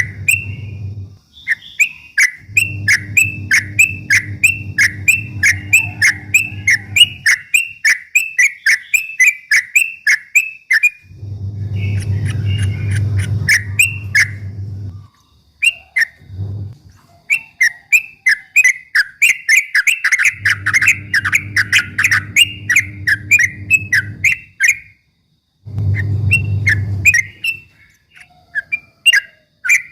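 Yellow-vented bulbul (trucuk) singing in fast, continuous runs of short chirping notes, several a second, in bouts broken by short pauses. A low hum comes and goes underneath.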